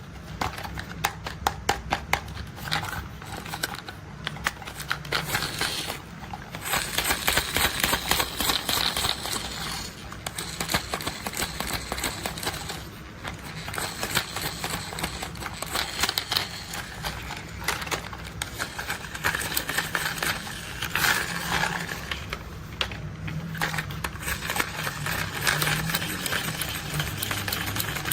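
Rapid tapping and clicking on plastic toy construction vehicles, many small clicks a second, with a few brief pauses.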